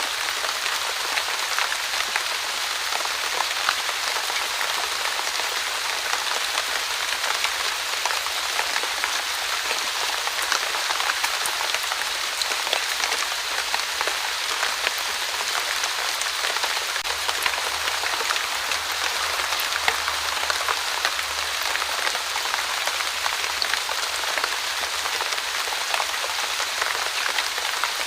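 Steady light rain falling, an even hiss dotted with many small drop ticks.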